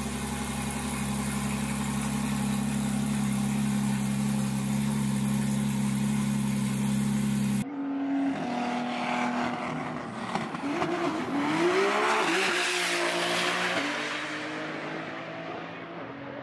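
A steady humming drone, then an abrupt change to a car accelerating hard, its engine note rising and falling before it fades away.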